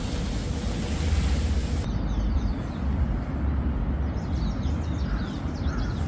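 Outdoor ambience dominated by a steady low rumble of wind on the microphone, with faint bird calls in the second half, including a few short calls near the end.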